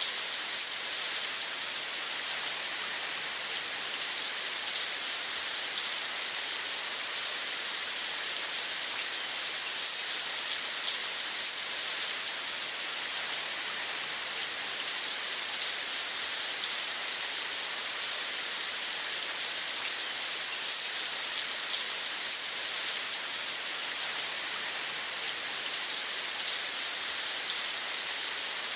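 Steady rain falling, a dense even hiss made of many small drop hits.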